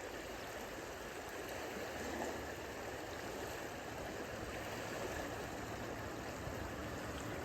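Small waves on Lake Michigan lapping at the shore, a steady wash of water.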